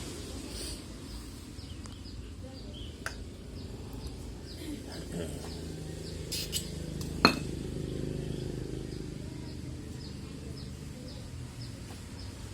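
Scattered light metallic clinks and clicks, the loudest a single sharp clink about seven seconds in, over a faint steady low hum.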